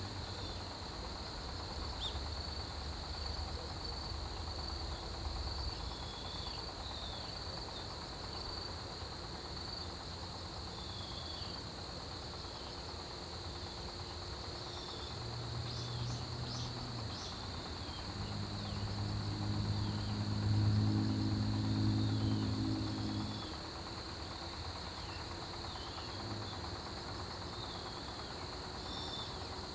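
Crickets and other autumn grass insects chirping steadily together, one high and continuous, another in rapid pulses. Partway through, a low mechanical hum like a distant engine swells up, becomes the loudest sound for a few seconds, and fades out.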